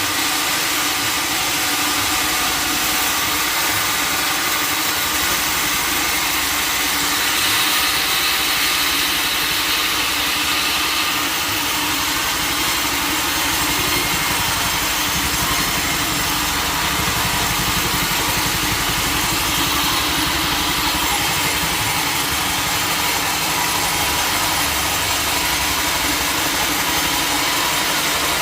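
Sawmill machinery running steadily: a loud, constant mechanical noise with a strong hiss and no breaks or impacts.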